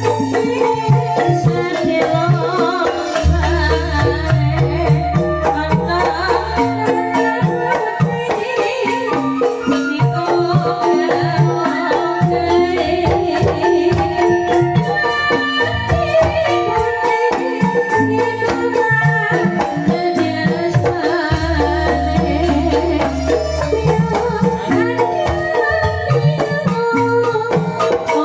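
Calung Banyumasan ensemble music: bamboo xylophones playing a fast interlocking melody over hand drums, with a deep held bass note coming in twice.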